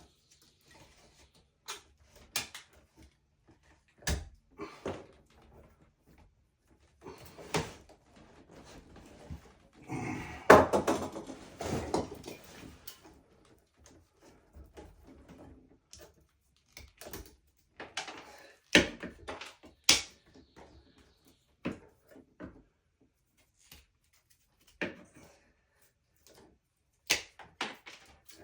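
Irregular knocks and clicks of tools and materials being handled indoors, with a louder stretch of clattering and rustling about ten seconds in.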